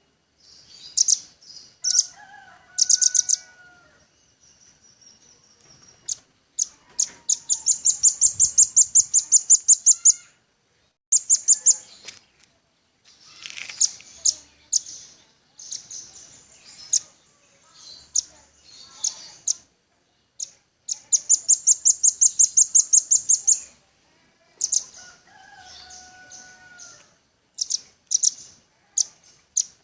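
Velvet-fronted nuthatch (rambatan paruh merah) calling in rapid trills of sharp, high chips, each run lasting a second or three with short breaks, the longest near the middle and again past two-thirds through. A softer, lower whistled note comes twice, near the start and near the end.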